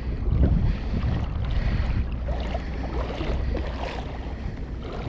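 Gusty wind buffeting the microphone as a steady low rumble.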